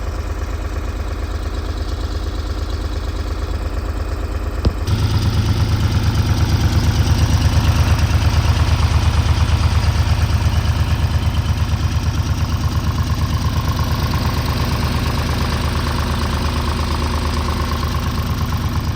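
John Deere 4010 tractor's six-cylinder engine idling with an even, pulsing beat. About five seconds in there is a click and the engine gets louder and fuller.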